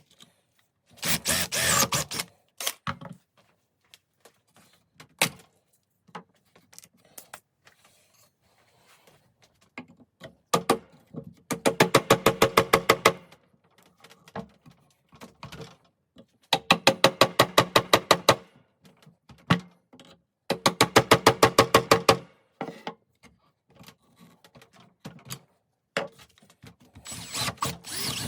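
A ratcheting hand-tool mechanism clicking rapidly, about a dozen clicks a second, in three bursts of a second or two each, with scattered single knocks and taps between them.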